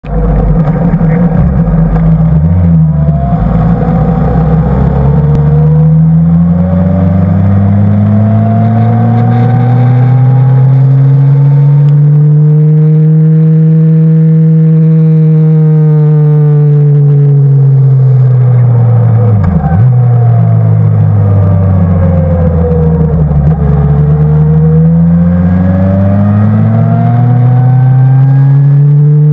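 Sport motorcycle engine heard from an onboard camera, its pitch rising and falling as the bike accelerates and slows. About twenty seconds in the note drops sharply and briefly, then climbs again near the end.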